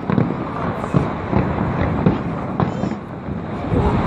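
Fireworks going off: several sharp bangs over the steady murmur of a watching crowd.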